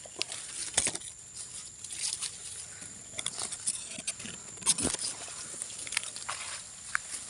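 Irregular rustling and crunching of footsteps and brushing through dry leaves, grass and saplings in the undergrowth, with a few sharper snaps. Under it runs a steady high insect drone.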